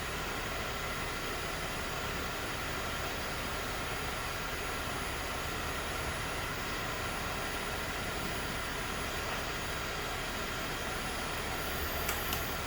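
Cylinder-head surfacing machine running steadily while it takes a cut across a warped cast-iron 427 Chevy big-block head, a level machine hum with a few faint steady tones. A few light clicks come near the end.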